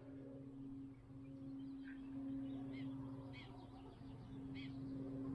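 Birds chirping, a short high call every half second to second, over a faint steady low hum.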